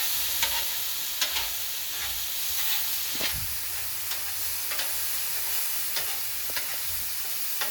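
Chicken and pork sizzling steadily on a 36-inch Blackstone flat-top griddle, with scattered sharp clicks and taps about once a second.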